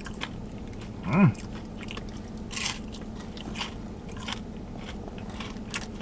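Close-up chewing of crispy battered fried fish, with irregular crunches of the crust. About a second in comes a short, pitched hum of the voice that rises and falls.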